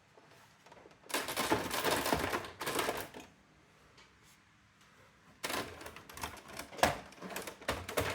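Brother AX-425 electronic typewriter printing: two bursts of rapid mechanical clicking, the second starting about halfway through.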